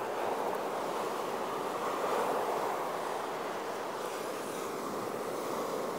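Steady wash of sea surf, an even rushing noise that swells slightly about two seconds in.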